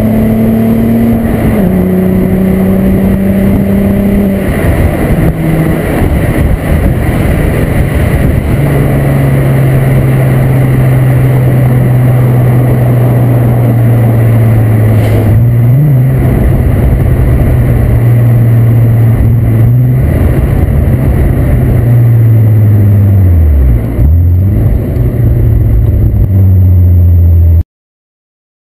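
VW Corrado's VR6 24-valve engine through a Techtonics Tuning exhaust with a Borla muffler, on the road. The engine note steps down about a second in, as at a gear change, then climbs and settles into a long steady drone. Near the end the pitch dips and climbs again, then the sound cuts off abruptly.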